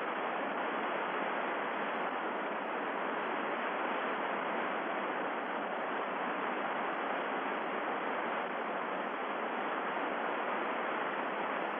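Steady hiss of an open air-to-ground radio channel between voice transmissions.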